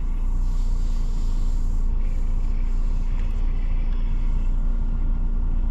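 Truck engine running steadily, heard from inside the cab: an even low drone with a constant hum.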